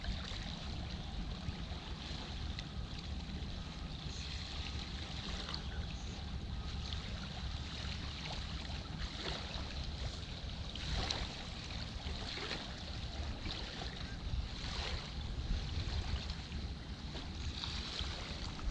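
Water splashing and lapping around a moving canoe, in irregular washes every second or two, over a steady low wind rumble on the microphone.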